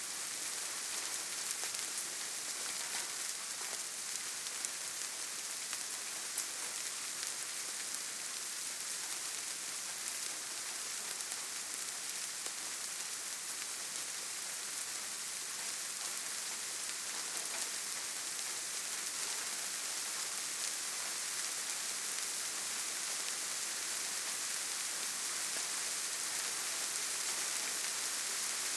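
Steady rainfall pattering on foliage and the ground, an even hiss with scattered individual drop ticks.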